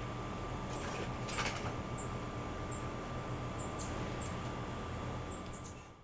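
A bird giving a string of short, very high chip notes, each dropping slightly in pitch, about a dozen at uneven spacing, with a few faint taps about a second and a half in, over a steady hum.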